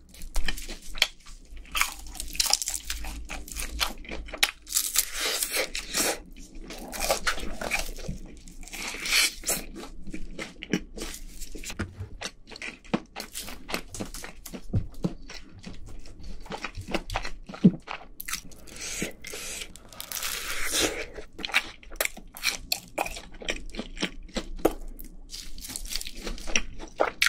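A person eating Kyochon Honey Combo fried chicken: repeated crisp crunches as the crust is bitten and chewed, with wetter chewing in between.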